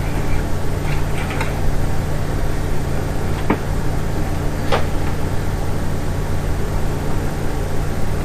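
Westinghouse Portatape reel-to-reel tape recorder's motor and cooling fan running with a steady electrical hum, with a few light clicks of handling on the machine.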